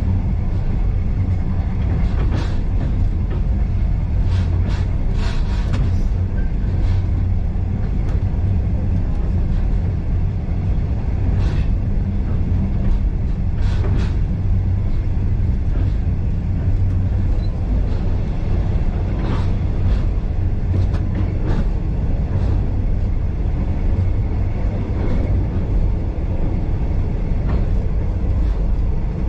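Passenger carriage of a steam-hauled heritage train running along the track: a steady low rumble with scattered sharp clicks and knocks from the wheels and rail joints.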